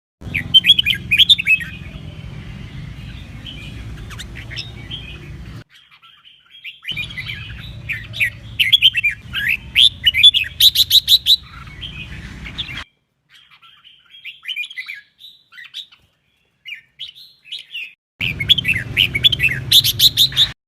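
Red-whiskered bulbul singing in bursts of quick, rising chirped phrases over a low steady hum. The song cuts off abruptly to silence a few times.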